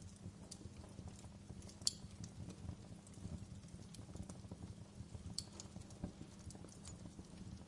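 Wood fire in a fireplace crackling: irregular small snaps over a low steady rumble, with a sharper pop about two seconds in and another a little past five seconds.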